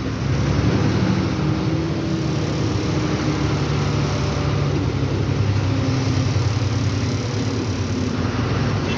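Loaded lorry's diesel engine running steadily as the truck creeps along in slow traffic, a continuous low hum.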